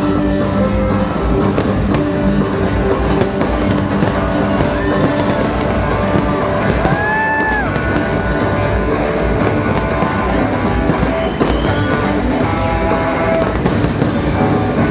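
Fireworks bursting and crackling continuously over loud orchestral-style show music that accompanies the display.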